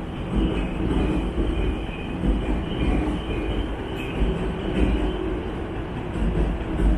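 Electric commuter train moving along the station tracks: a steady rumble of wheels on rail with a faint high whine.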